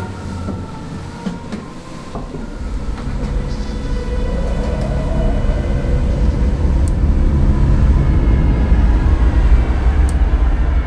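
A low rumble that grows louder over the first several seconds and then holds steady, with a few sharp clicks in the first two seconds.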